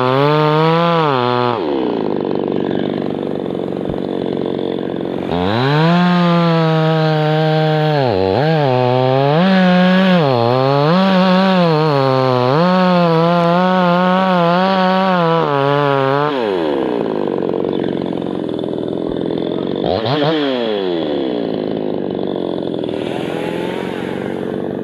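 Two-stroke chainsaw bucking a birch trunk into firewood: held at high revs with repeated dips in pitch as it bites into the wood, dropping to idle twice between cuts, with one short blip of throttle about twenty seconds in.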